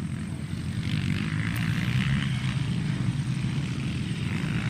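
Motocross dirt bikes racing around the track, their engines merging into a steady drone.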